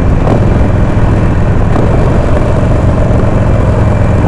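Harley-Davidson Sportster V-twin engine running steadily with a deep, even low rumble, no revving.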